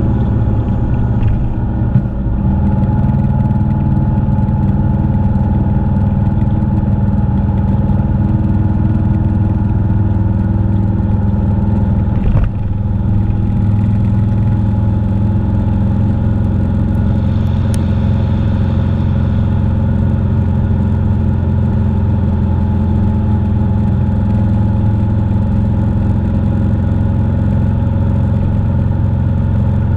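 Motorcycle engine running at a steady speed while riding, its pitch holding nearly level throughout. A brief knock comes about two seconds in and another near the middle.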